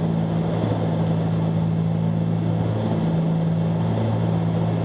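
Steady drone of a 1974 Cessna 310Q's twin six-cylinder piston engines and propellers at cruise power, heard inside the cockpit: a constant low hum over a wash of air noise.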